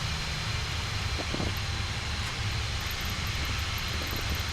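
Steady flight-deck noise of a Boeing 737-800 on the ground with its engines at idle: a low rumble under an even hiss, with a faint thin steady whine.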